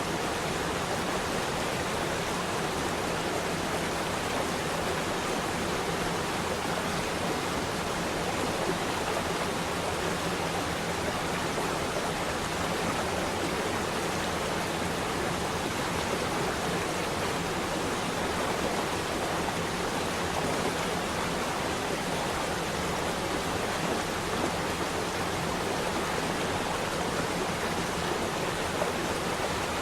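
Flowing water rushing steadily, like a stream or small waterfall, with no breaks or changes.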